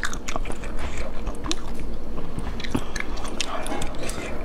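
Close-miked eating sounds from someone eating snails cooked in chili oil: wet, chewy mouth noises with many sharp clicks and smacks.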